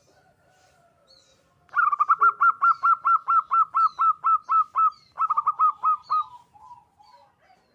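Zebra dove (perkutut) singing: a fast run of clipped cooing notes, about five a second, with a brief break, then a quicker burst and a few lower trailing notes. Faint chirps of other birds lie behind it.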